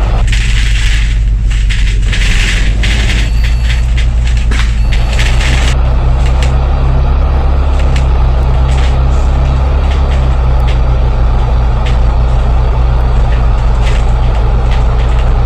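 Bus diesel engine running steadily under way, heard from inside the bus, with several short bursts of air hissing in the first six seconds and scattered light clicks and rattles.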